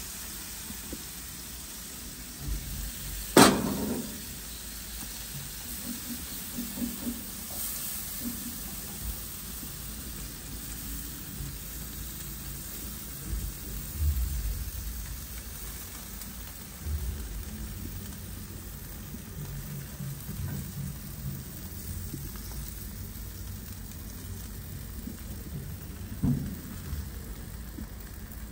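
Food sizzling steadily as it fries in a pot. About three and a half seconds in, one loud knock rings briefly, and a few softer knocks follow later.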